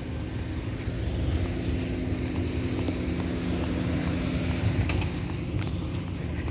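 Rooftop air-conditioning condensing units running: a steady hum of a few low tones over a broad low rumble.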